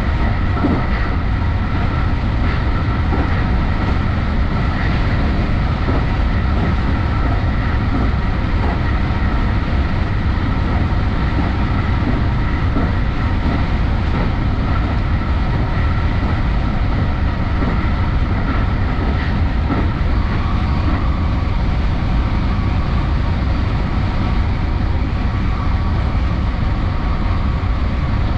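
JR Special Rapid electric train running at speed, heard from inside at the front behind the cab: a steady rumble of wheels on rail with a faint steady high whine. A few faint clicks come in the first few seconds.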